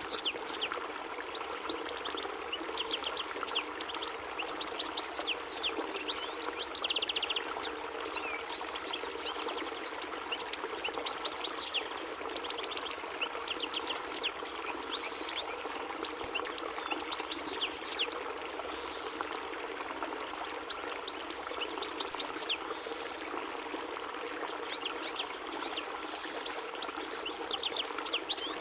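European goldfinch singing: a long, rapid twittering song of quick high chirps and trills, with short pauses and some buzzy notes, over a steady water-like rushing noise.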